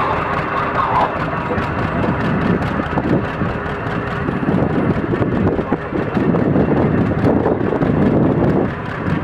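Vintage tractor engine labouring under load as it pulls a tractor-pull weight sled, its firing heard as a steady rapid beat.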